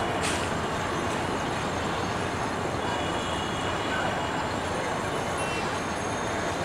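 Passenger train rolling slowly through a station yard: a steady, even rumble of carriages on the rails, with a faint thin high squeal that comes and goes.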